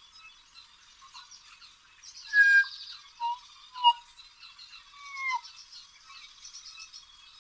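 Birds calling and chirping: scattered short high chirps and whistled notes, some sliding down in pitch, with a louder burst of calls a little over two seconds in and a few more sharp calls after it.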